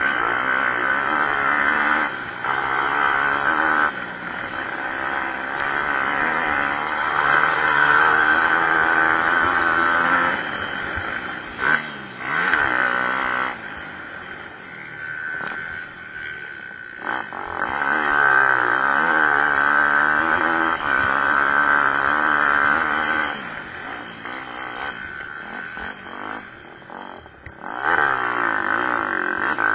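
Pit bike engines racing, revving up and down as the bikes accelerate and shift, with the sound fading for a few seconds around the middle and again later before swelling back near the end.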